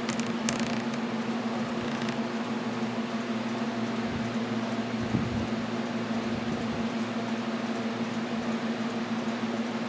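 Steady electric hum with an even airy noise behind it, like a running fan, and a few light clicks in the first two seconds.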